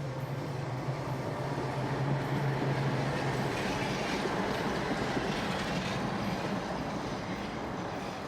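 A heavy vehicle running with a steady low engine hum, and a rushing noise that swells through the middle and eases off toward the end.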